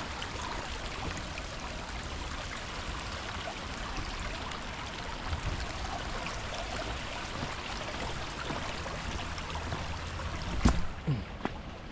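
Steady hiss of rain and running water. A single sharp knock comes near the end, the loudest sound, followed by a couple of faint clicks.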